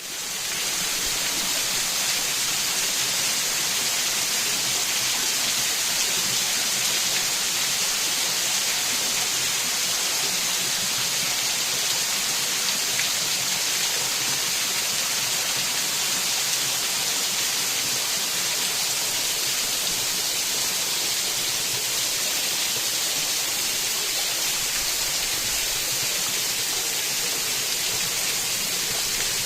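Water rushing steadily, a constant even hiss of flowing and falling water.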